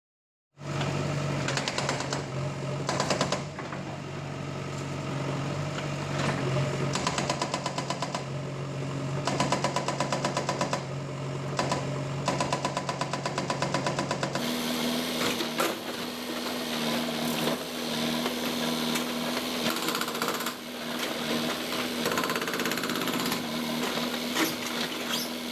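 Hydraulic breaker on a JCB backhoe hammering in repeated stretches, a rapid rattle of blows over the machine's diesel engine running under load. The engine note changes about halfway through.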